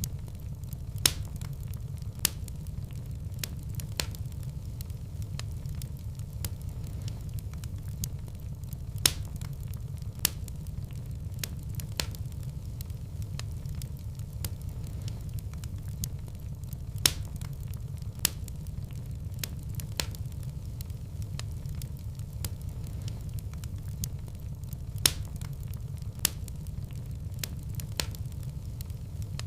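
Fireplace wood fire burning, with a steady low rumble and fine crackling. Sharp wood pops come in pairs about a second apart, roughly every eight seconds.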